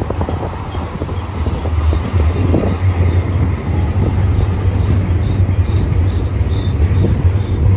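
BNSF freight train rolling past close by: a loud, steady low rumble, with wheels clattering and knocking on the rails.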